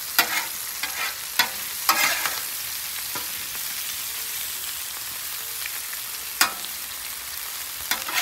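Halved cherry tomatoes sizzling steadily in butter on a flat-top griddle. Metal spatulas scrape and tap the steel surface now and then: a few times in the first two seconds, once about six and a half seconds in, and again near the end.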